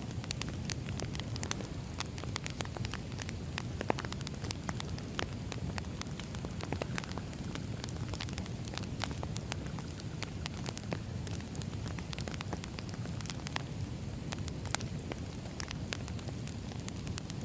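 Wood fire crackling: many irregular sharp pops and snaps over a steady low rumble of burning logs, with a louder pop about 4 s in and another near the end.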